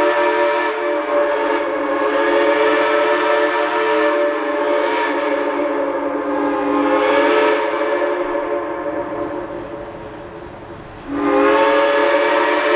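Shay No. 11's four-chime steam whistle sounding a long chord blast that fades away, then a second blast that comes in sharply about eleven seconds in.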